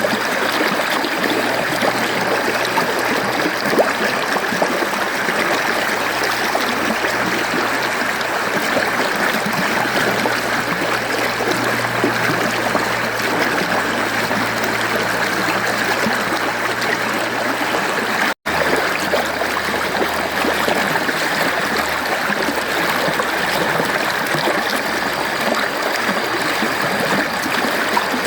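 Mountain stream flowing steadily over rocks, an even rushing and trickling of water. About two-thirds through, it cuts out for an instant and resumes.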